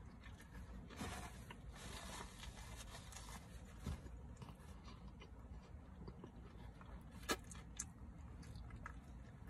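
Faint chewing and mouth sounds of someone eating a burger, with a few short sharp clicks.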